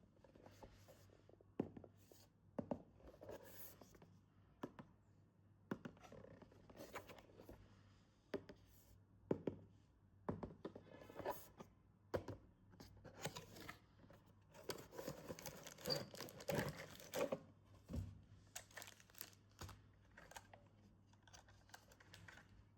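Toy packaging being opened and handled: tearing and crinkling of wrapping, with scattered light knocks and clicks, busiest in a run of rustling about two-thirds of the way through.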